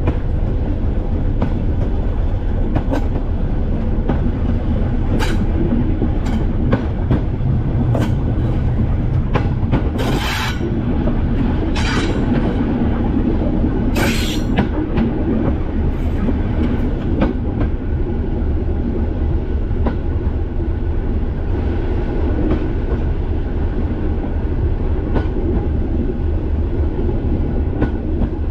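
Class 205 'Thumper' diesel-electric multiple unit running along the line: a steady low engine drone and rumble, with wheels clicking over rail joints. There are two brief high-pitched bursts, about ten and fourteen seconds in. The clicks thin out in the last third.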